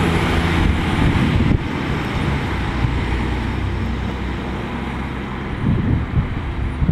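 Fire engine driving on a call: its engine running steadily under road noise. The sound eases off slightly about a second and a half in.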